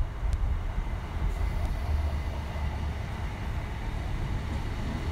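ScotRail Class 318 electric multiple unit running past close by along the platform, a steady rumble of wheels on the rails.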